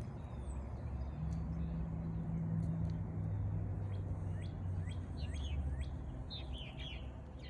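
Small birds chirping: short notes that slide downward, repeated every second or so, with a quick cluster near the end. Under them runs a steady low rumble.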